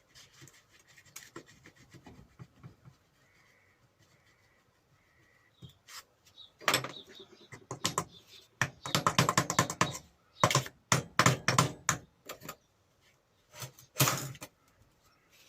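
Irregular sharp knocks and clattering taps on a bench grinder as its grinding stone is worked off the spindle. Scattered light clicks at first, then loud clusters of rapid knocks through the second half.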